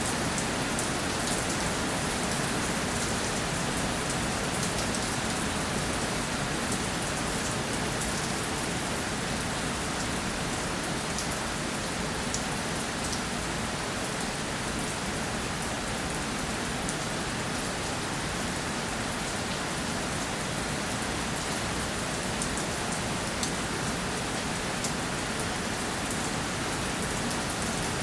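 Steady rainfall, an even hiss of rain on surfaces with many small drop ticks.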